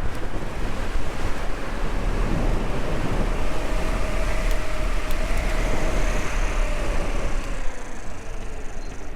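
Wind rumbling over the microphone while riding along a lane, with road noise and a faint tone that rises and then falls in the middle.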